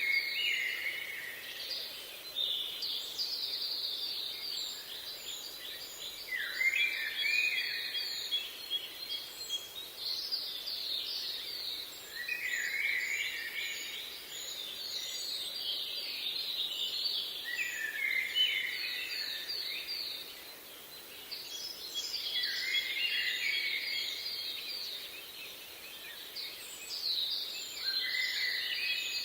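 Birds calling: bursts of rapid, high-pitched repeated notes every few seconds, some dropping lower at the end, with fainter thin ticks above them, over a steady background hiss.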